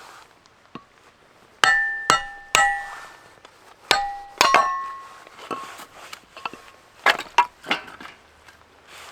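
Metal camping gear being handled: a series of sharp metallic clanks and clinks, each ringing briefly, with the loudest cluster in the first half and a few more near the end.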